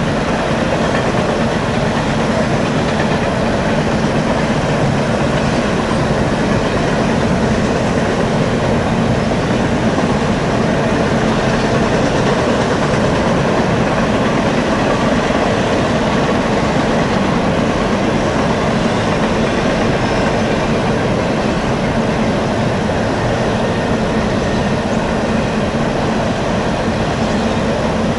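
A train rolling past, its cars running steadily over the rails with a continuous, even noise that does not let up.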